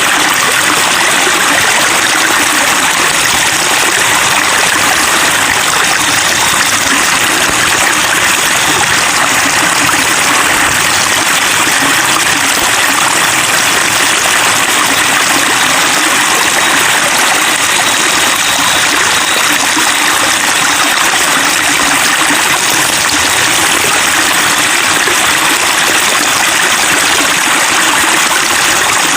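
Water flowing and splashing over rocks in a stream, a steady, unbroken babbling.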